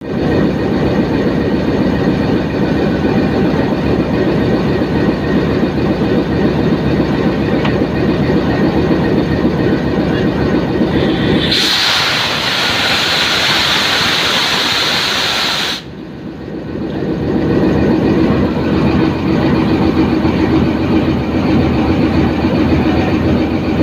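Diesel locomotive running with a steady rumble. Partway through, a loud hiss of air release lasts about four seconds and cuts off suddenly, then the engine rumble carries on.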